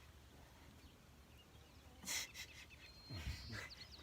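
A small bird chirping in quick runs of short falling notes, with two short breathy snorts close by: a sharp one about two seconds in and a lower, deeper one about a second later.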